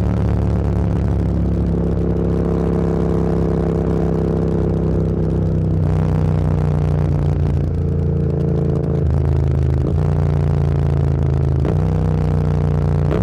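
Motorcycle engine running under way, recorded from the rider's position, its note holding steady and then stepping in pitch several times through the second half.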